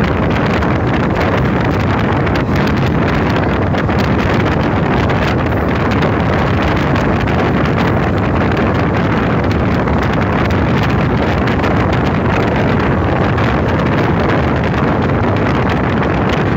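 Passenger train running at speed, heard from outside the coach: a loud, steady rush of wind buffeting the microphone over the rumble of the train.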